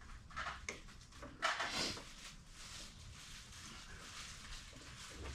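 Faint handling noises from work on an engine: a few soft rustles and light knocks in the first two seconds, then only a low background hum.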